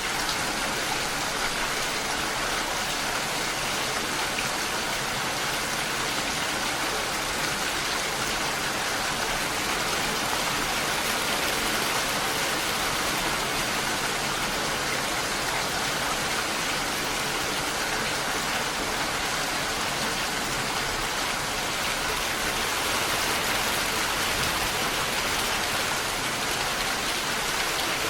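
Steady rainfall: an even, unbroken hiss of falling rain that holds the same level throughout.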